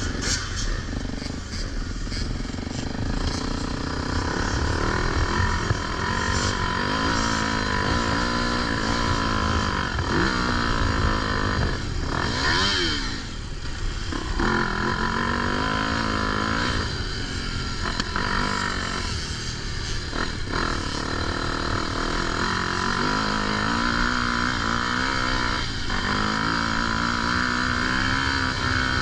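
Dirt bike engine being ridden hard, revving up and dropping back again and again as it is accelerated and shifted.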